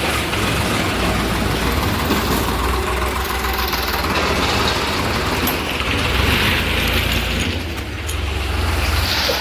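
Farmtrac tractor's diesel engine running steadily.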